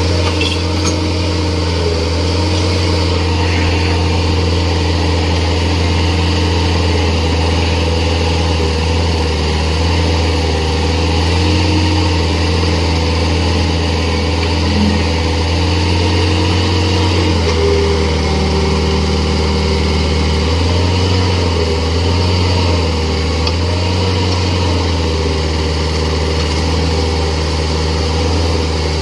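Excavator diesel engine running steadily. Its note shifts slightly about two-thirds of the way through and wavers for a few seconds.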